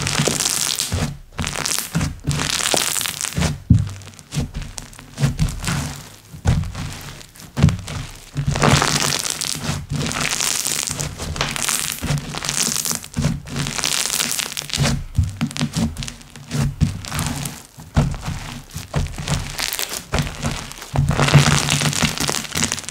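Hands squeezing and pressing slime, giving uneven bursts of crackling and clicking pops with soft thuds.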